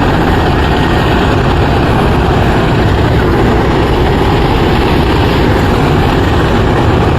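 Helicopter running close by: a loud, steady rush of rotor and engine noise, heaviest in the low end.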